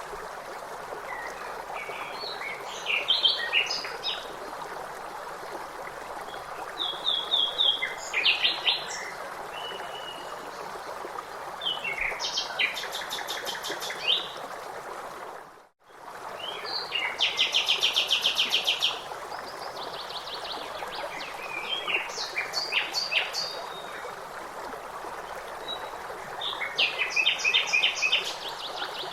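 Several songbirds singing in short phrases of rapid repeated notes, over a steady rush of running water such as a stream. About 16 s in, everything drops out for a moment and comes back.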